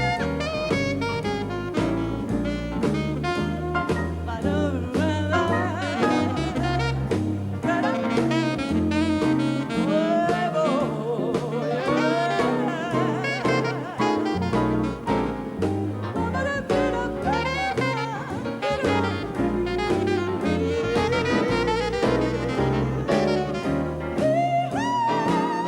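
Instrumental swing jazz: horns or saxophones playing notes with vibrato over a stepping bass line and drums.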